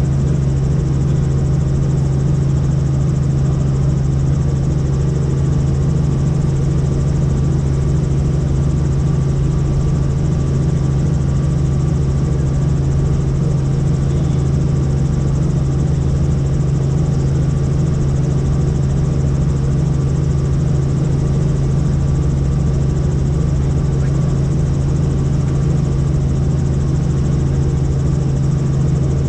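Helicopter in flight, its engine and rotors running steadily: a constant low hum that holds one pitch throughout.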